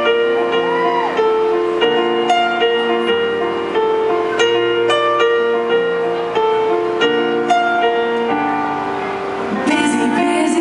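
Live piano introduction to a slow ballad: sustained chords and arpeggiated notes moving steadily through a progression, with a voice entering faintly near the end.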